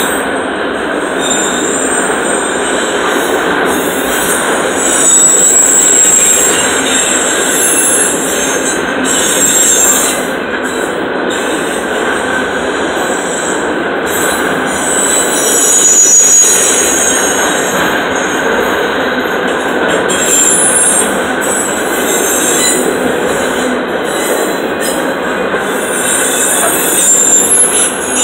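Freight train of empty autorack cars rolling past: a steady, loud rumble and rattle of steel wheels on rail, with thin high-pitched wheel squeal coming and going.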